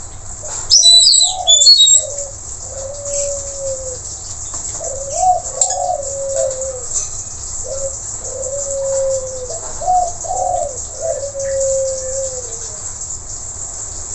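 A blue-rumped parrot gives a few loud, shrill calls about a second in. A dove then coos in three repeated phrases, each ending in a long, slightly falling note, over a steady high hiss.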